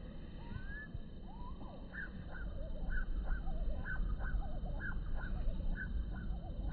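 Wild birds calling: from about two seconds in, a run of short, sharp calls comes about two a second, over lower, wavering notes, with a steady low rumble underneath.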